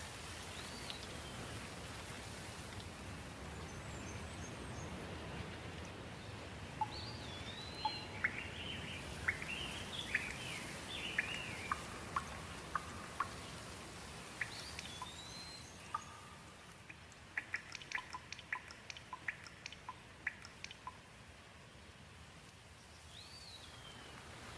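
Steady rain hiss with birds calling over it: a whistled note that rises then falls, repeated every several seconds, and a flurry of chirps in the middle. Later comes a run of short sharp ticks like drips.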